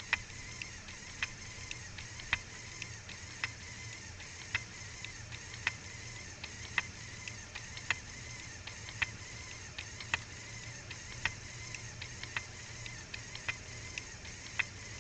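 The plastic mechanism of a LEGO John Deere 24T baler model cycling over a steady low hum, with a sharp click about once a second and fainter ticks in between.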